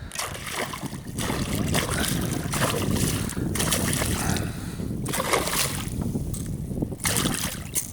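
Water splashing and sloshing at the side of a kayak in uneven bursts, with wind buffeting the microphone as a low rumble.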